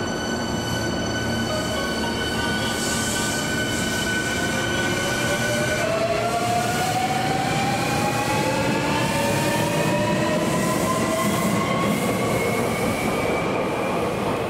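Electric commuter train pulling away and accelerating: its motor whine, several tones together, holds steady at first, then climbs slowly in pitch from about five seconds in, over the running rumble of the train.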